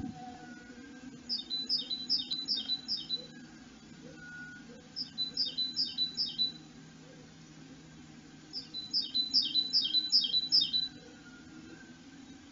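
A small songbird singing three phrases, each a quick run of about seven repeated high two-part notes, over a faint steady low hum.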